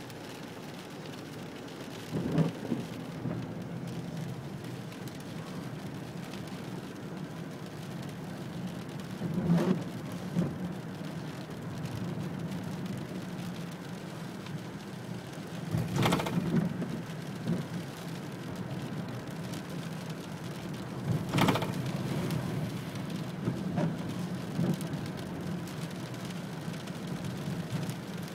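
Steady rain falling, with four loud, short, sharp hits or cracks spaced roughly six seconds apart.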